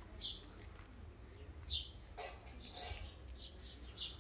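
Small birds chirping: a scattered series of short, high-pitched chirps, about six in all, over a faint low rumble.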